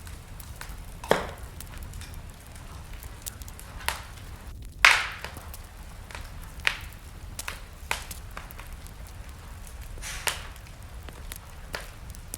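Wood fire burning in a fireplace: scattered sharp crackles and pops over a steady low rumble, the loudest pop about five seconds in.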